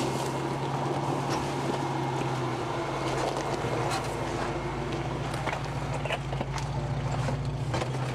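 1994 Geo Tracker's four-cylinder engine running at steady low revs while crawling over a rocky off-road trail, with scattered knocks and rattles from the rough ground.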